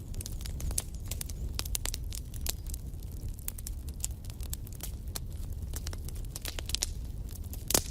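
Wood fire burning in a fireplace: a steady low rumble of the flames with irregular crackles and sharp pops, the loudest pop near the end.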